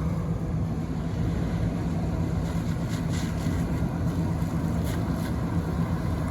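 1986 Chrysler LeBaron convertible on the move: a steady engine hum under road and wind noise, holding an even speed.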